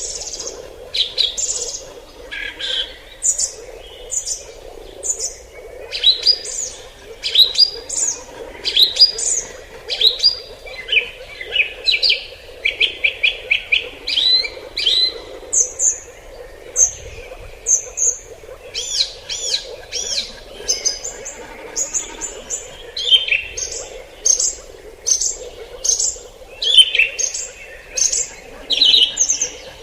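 Forest birds chirping and whistling in many short, high, repeated notes, with a quick rapid series of notes about eleven seconds in, over a faint steady background hum.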